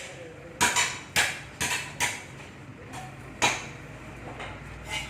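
Hand work on a submersible water pump during reassembly: an irregular string of about eight sharp metal knocks and clinks from parts and tools.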